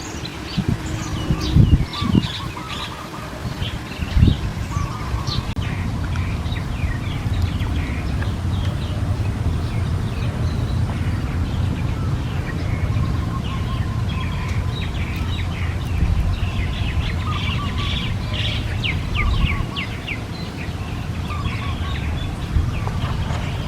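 Small birds chirping, a steady stream of rapid, short, high falling calls that grows busier for a few seconds near the end, over a steady low rumble. A few loud knocks in the first few seconds.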